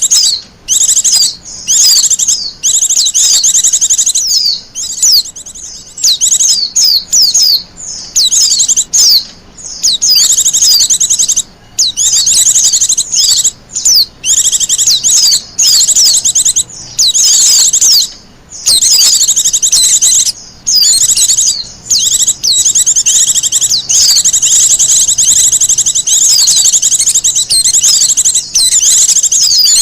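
Wild white-eye (pleci) singing a fast, high-pitched twittering song almost without pause, broken only by brief gaps.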